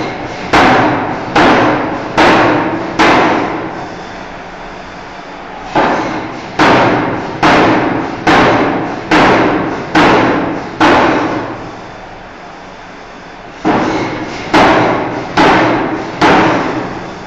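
Forging hammer striking a steel bar: heavy blows about one a second, each ringing briefly, in three runs of four to six strikes with short pauses between the runs.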